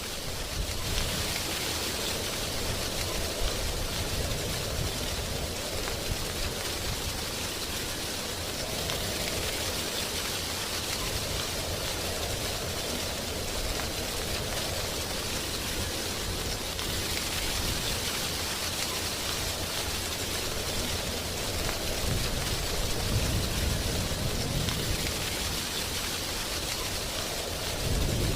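Wind blowing through tree leaves, a steady rustling hiss that rises and falls in slow swells every several seconds, over a low rumble.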